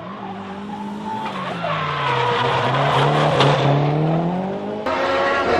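Drift car engine revving, its pitch sagging and then climbing again, over tyre squeal that grows louder as the car slides. Near the end the sound cuts abruptly to another car's higher-pitched engine note.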